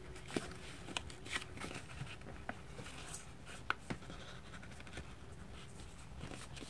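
A sheet of paper being folded and creased by hand: soft rustling and rubbing, with scattered light crinkling clicks.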